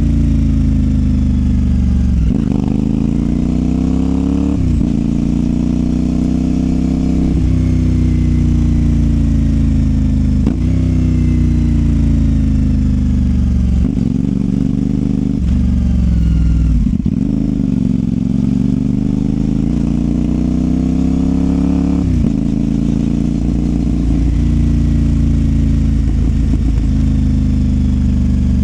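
CFMOTO 450SR's parallel-twin engine through a Yoshimura exhaust, revving up through the gears: the pitch climbs and drops sharply at each shift, about every two to four seconds, with some stretches of falling revs as the throttle closes.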